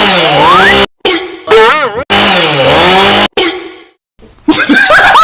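Chainsaw engine running hard, its pitch dipping and recovering, cut off abruptly and then repeated, with a wavering warbling tone in between. From about four and a half seconds in, short rising shrieks and laughter.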